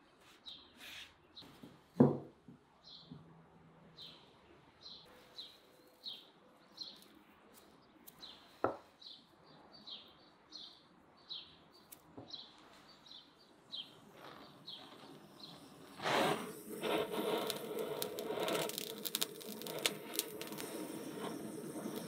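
A small bird chirping over and over, short high calls about two a second, with two sharp knocks among them. About sixteen seconds in, a louder, dense crackling noise sets in and keeps going.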